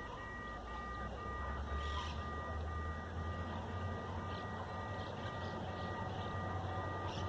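Electronic level-crossing warning beeping in a quick, even two-tone pulse, while the low rumble of an approaching diesel passenger train builds from about a second in.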